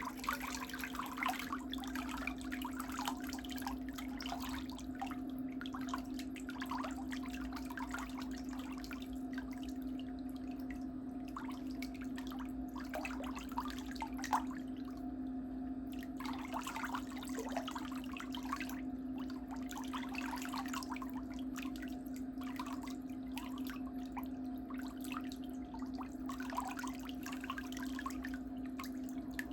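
Irregular dripping and splashing water during foot care, over a steady low hum.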